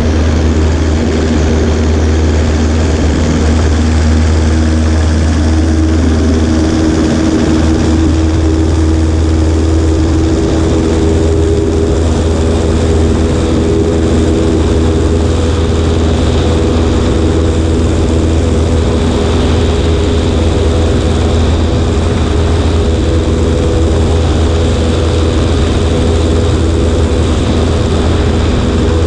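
Cessna 140A's engine and propeller running at steady power, an even drone with no change in pitch, heard from a camera on the right wing.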